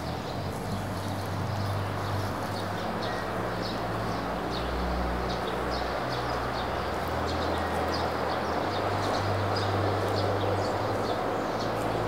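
Small birds chirping, short high calls repeating several times a second, over a steady low background rumble and hiss of outdoor ambience.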